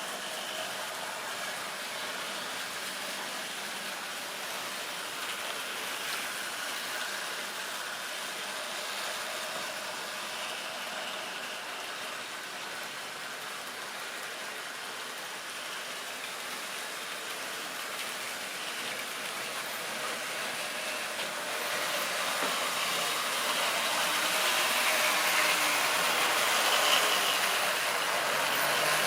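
Model railway train running steadily along its track, a continuous mechanical running noise that grows louder over the last third.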